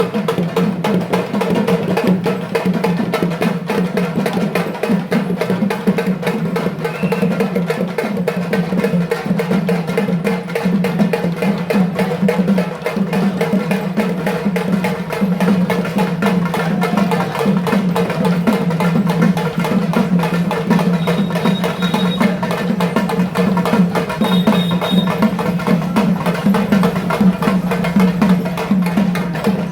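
Drums played fast and without a break, a dense run of rapid strokes keeping up a driving rhythm for the dance.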